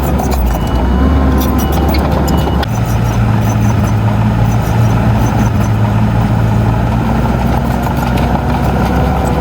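Heavy diesel engine of earthmoving machinery running steadily, its note stepping up a little under a third of the way in and then holding, with scattered light clicks over it.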